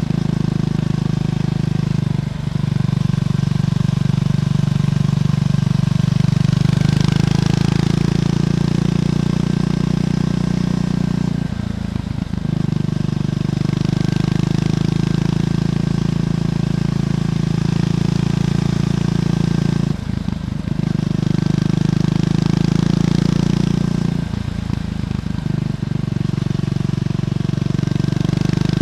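Triumph Scrambler 400X single-cylinder engine through its stock exhaust, pulling steadily on the road. The note drops out briefly four times, as at gear changes.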